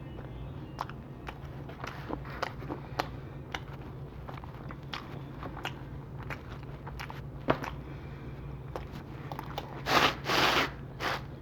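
Close-miked chewing of pizza, with many small wet mouth clicks and smacks, then a few loud crunchy bites near the end.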